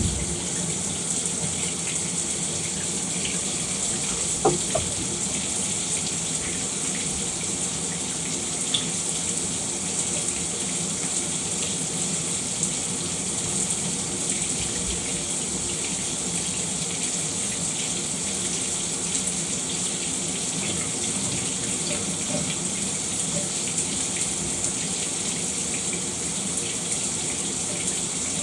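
Shower running steadily, its spray of water hissing down without a break. There is one brief, sharper sound about four and a half seconds in.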